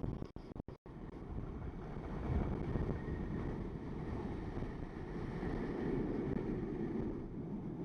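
Wind buffeting the microphone over a running jet ski towing a tube across the water. The sound cuts out a few times for an instant in the first second.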